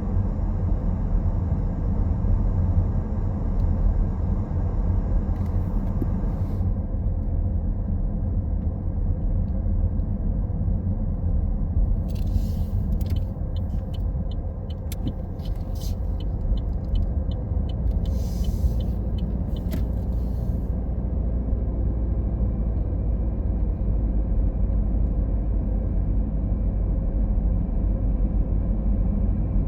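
Car driving along a road, its steady low rumble of engine and tyres heard from inside. Around the middle comes a spell of higher hiss with a few small ticks.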